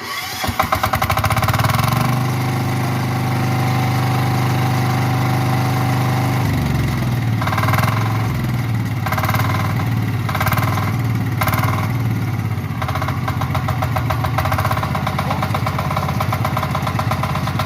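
Power weeder's Kama engine starting and running, settling into a steady run, then shifting its running note about six seconds in, with a few surges of engine speed after that.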